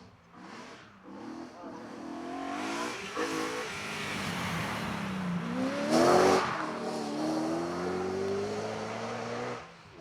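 A car's engine accelerating hard, its pitch climbing and dropping back at several gear changes. It is loudest as the car passes about six seconds in, then keeps pulling away, and the sound cuts off suddenly near the end.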